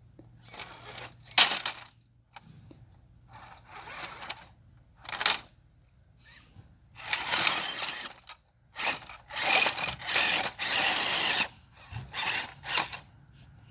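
Axial SCX10 II radio-controlled rock crawler's electric motor and geared drivetrain running in irregular bursts as it crawls over rocks. The bursts are short at first, with longer, louder runs after about seven seconds.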